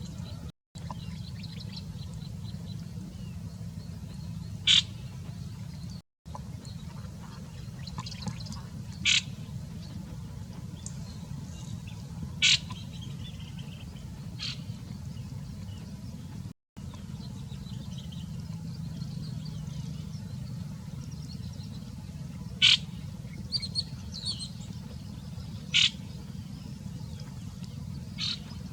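A bird giving short, sharp single chirps, one every few seconds, over a steady low hum.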